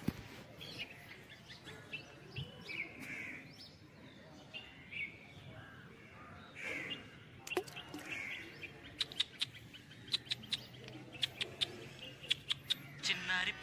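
Birds chirping outdoors in short calls. Through the second half comes a run of sharp clicks, several a second.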